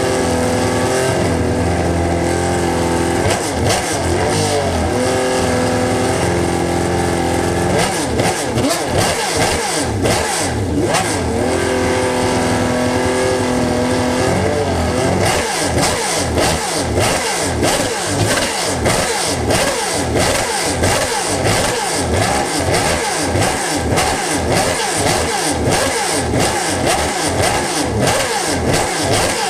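Performance car engine running at steady revs, then revved, its note rising and falling again and again.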